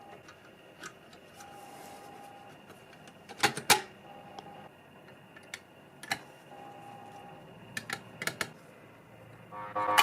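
A scattered series of sharp clicks and light taps, the loudest two close together about three and a half seconds in, with a faint steady hum coming and going a few times.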